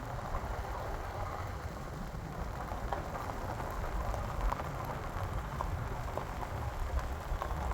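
Falling water splashing steadily, an even rush with many small spattering crackles, as at the foot of a waterfall.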